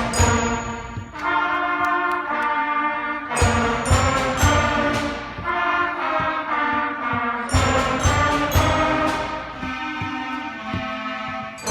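School concert band playing a march: held brass chords alternate with louder stretches of rhythmic percussion strokes and low drum hits.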